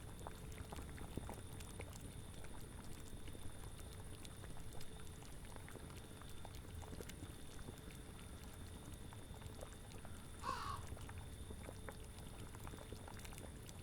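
Steady bubbling and popping of a boiling cauldron over a low rumble. A single short animal call comes about ten seconds in.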